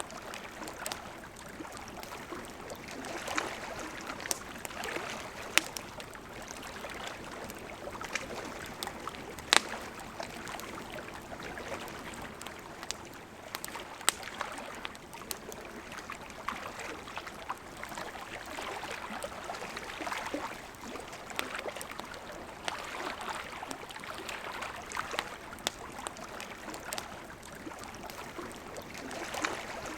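Steady rush of a flowing river, with a campfire crackling and giving scattered sharp pops, the loudest about 5, 10 and 14 seconds in.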